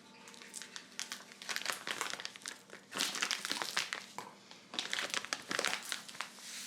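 Crinkling and crumpling of something light being handled, in irregular busy stretches, busiest about three seconds in and again near five seconds.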